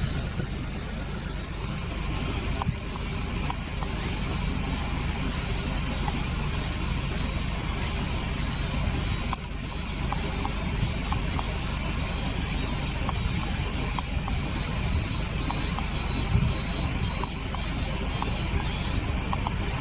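Insects shrilling in a steady high-pitched drone. Over it a second insect chirps in a regular pulse, about one and a half times a second, which stops shortly before the end. A low rumble runs underneath.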